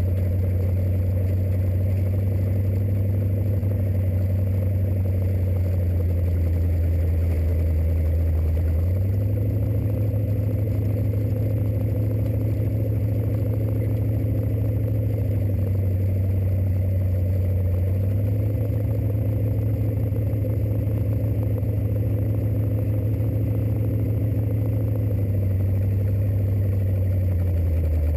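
Rat rod's engine, fitted with a home-built intake and Stromberg carburetors, running at low speed while driven. Its pitch steps up and down a few times as the throttle changes, at a steady loudness.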